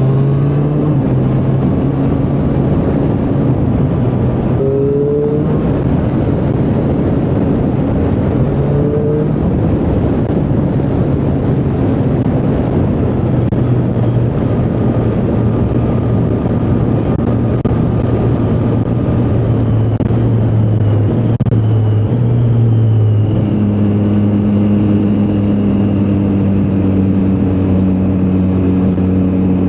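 Triumph Street Triple 765R's inline three-cylinder engine running under way, heard over a steady rushing noise. The pitch steps briefly a couple of times early on. About three quarters of the way through it settles into a steadier, deeper note.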